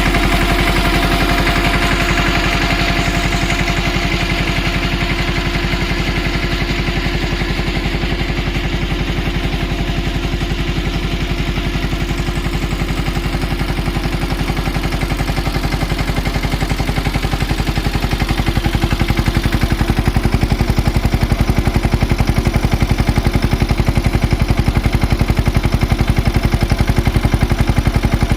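Mahindra Yuvraj tractor's single-cylinder diesel engine running steadily with a fast, even pulse while driving a 3x3 PTO water pump. It gets a little louder about two-thirds of the way through.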